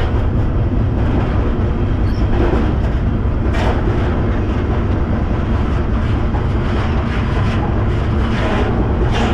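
Freight train running, heard from aboard a freight car: a loud, steady rumble of wheels and cars on the rails, with a few brief sharp rattles.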